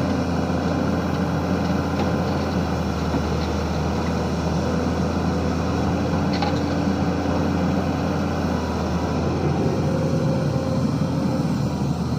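Diesel engine of a SANY SY215C excavator running steadily, a low drone with a humming tone that fades and returns as the machine works.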